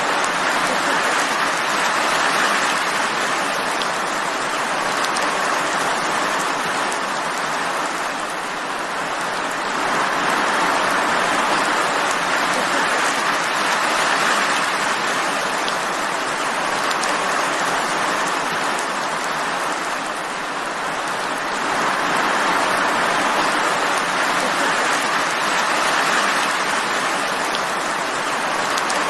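Steady rain falling, a dense even hiss with no thunder, easing slightly twice before building again.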